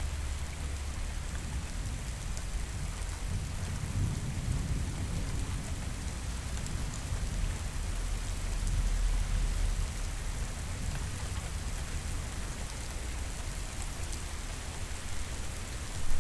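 Steady rain, with a low rolling rumble of thunder that builds from about four seconds in and dies away by about ten seconds.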